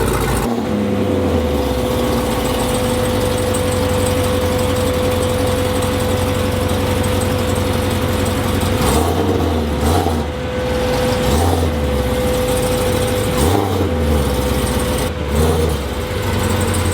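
A vehicle engine idling with a steady whine, briefly revved up and back down several times in the second half.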